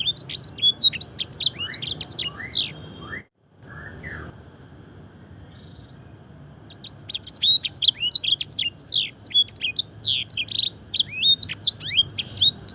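Domestic canary singing fast runs of sharp, high, downward-slurred notes, a canary song filled with blackthroat and edelsanger phrases. The song breaks off about three seconds in, with a moment of dead silence and a few quiet seconds, then starts again.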